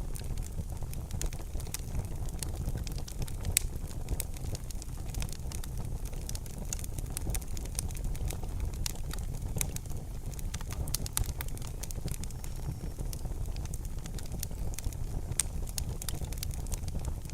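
Wood fire crackling in a fireplace: frequent sharp snaps and pops over a steady low rumble of burning, with one louder snap about three and a half seconds in.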